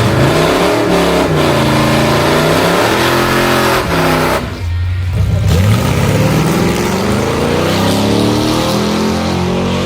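402 cubic inch big-block Chevrolet V8 in a C10 pickup revving hard, its pitch climbing and falling several times, with a brief break about four and a half seconds in before it climbs again.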